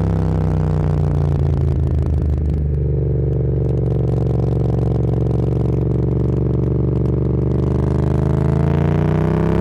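Motorcycle engine heard from the rider's seat. It eases off with some rattle over the first couple of seconds, holds a steady low cruise, then rises in pitch as the bike accelerates near the end.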